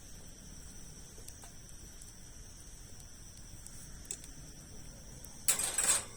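Wood campfire burning with a few faint crackles, over a steady high-pitched insect drone. Near the end comes a louder burst of noise lasting about half a second.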